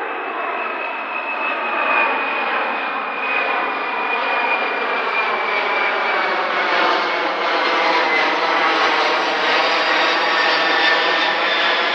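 A steady engine drone, its pitch slowly falling while it grows gradually louder.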